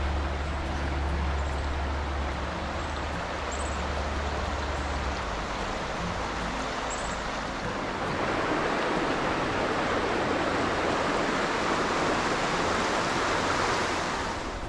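River water rushing steadily, growing louder a little past halfway.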